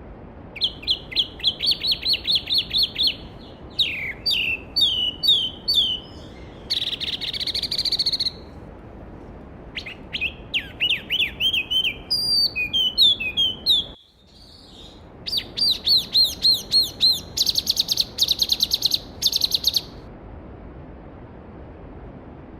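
A songbird singing in four long phrases of fast, repeated high chirping notes, over the steady rush of a mountain stream. The background briefly drops out about two-thirds of the way through, then resumes.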